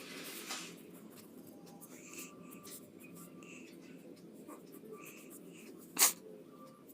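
Pencil scratching on paper in short sketching strokes, with one sharp knock about six seconds in.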